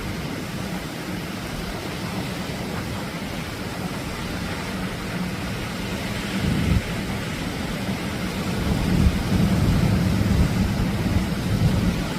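Atlantic surf: waves breaking and washing on a beach, a steady rushing noise with a heavy low rumble that swells about nine seconds in.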